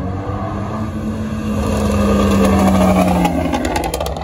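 A car engine running as the car drives past, with a steady engine note. It grows louder to a peak about two to three seconds in, then fades, with a quick run of sharp clicks near the end.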